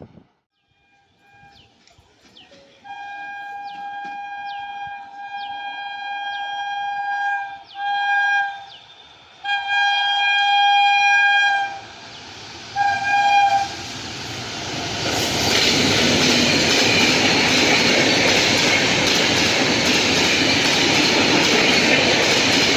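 WAP-7 electric locomotive horn sounding one steady tone in four blasts: long, short, long, short. The train then comes by at speed, its wheels rumbling and clattering over the rail joints, loud and steady to the end.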